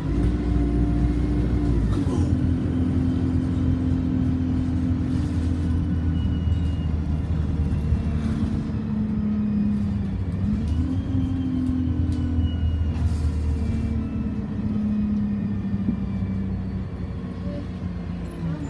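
Alexander Dennis Enviro200 single-deck bus heard from inside the cabin while under way: the engine and drivetrain drone steadily, the pitch stepping down and rising again a few times as the bus changes speed.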